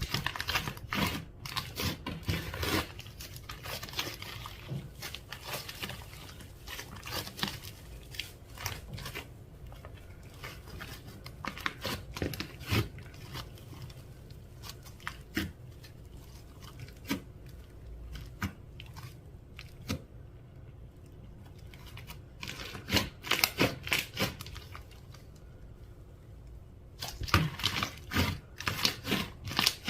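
Slime being squished, stretched and folded by hand, giving wet crackling and popping clicks. It comes in spells, busiest at the start and again near the end.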